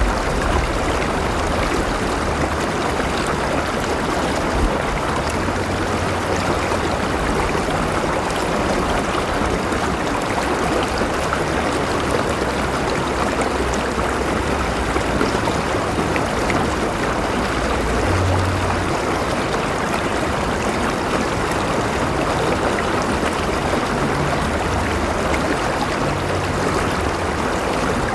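River water flowing steadily over rocks, an even rushing and gurgling with no breaks.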